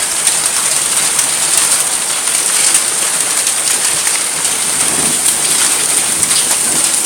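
Heavy downpour of rain and large hail, golf-ball-sized hailstones among it: a steady loud hiss of falling water dotted with many sharp ticks of stones striking hard surfaces.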